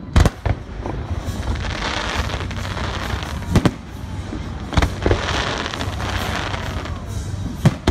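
Aerial fireworks shells bursting with sharp bangs, about five in all, with a dense crackling hiss from glittering crackle effects swelling between them.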